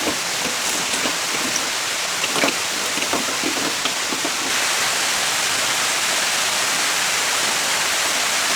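Steady hiss of water, rain or running water, with scattered light taps; it grows slightly louder and more even about halfway through.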